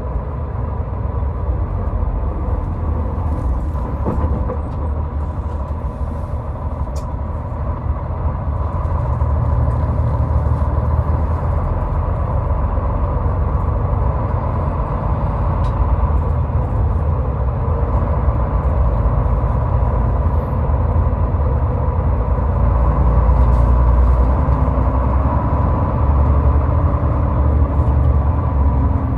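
Car driving at highway speed: a steady low rumble of tyres and engine, with a thin steady tone above it.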